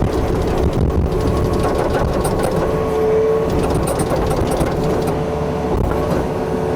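Yanmar excavator's diesel engine running steadily under hydraulic load, with the metal rake attachment scraping and rattling against pool debris, the clatter mostly in the middle.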